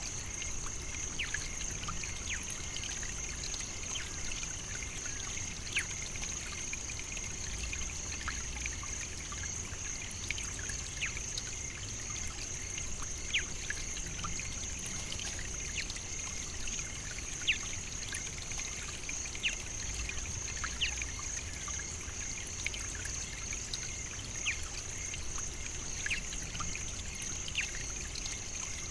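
African savannah nature ambience: a steady high-pitched drone with many short, scattered high ticks and chirps over a low rumble.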